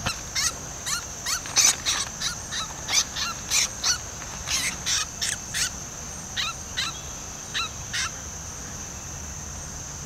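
A bird giving a series of short, sharp calls, about two or three a second, that slow and stop about eight seconds in, over a steady high-pitched insect drone.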